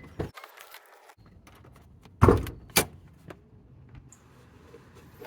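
A few knocks and clatters, the loudest a pair of heavy thumps in quick succession about two seconds in, followed by a lighter knock.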